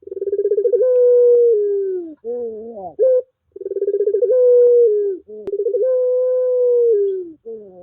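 Puter pelung (Barbary dove) cooing in long drawn-out coos. Each coo opens with a quick stutter, holds a steady note and drops at the end, with a shorter, bending, rising coo between them.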